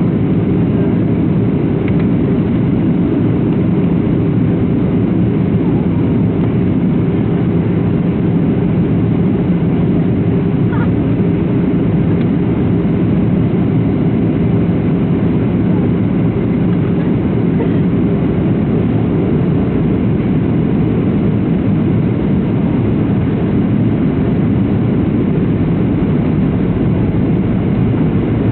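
Steady cabin drone inside a Boeing 737-700: the CFM56 turbofan engines and airflow give an even, low rumble with a constant hum, without change.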